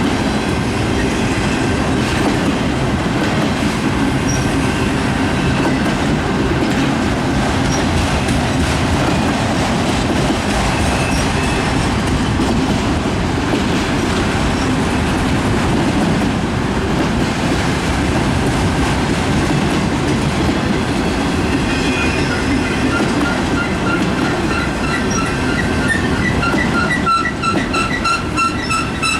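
Freight train cars rolling past, wheels clattering over the rail joints with a steady heavy rumble. Near the end a high ringing tone comes in and pulses several times a second.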